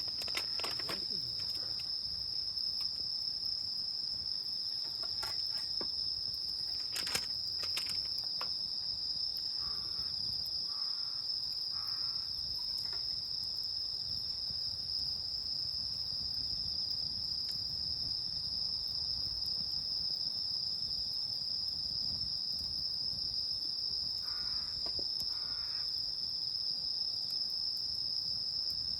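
Steady chorus of night-singing crickets, one constant high-pitched trill, with the campfire's occasional sharp crackles and pops, the loudest a few around seven to eight seconds in.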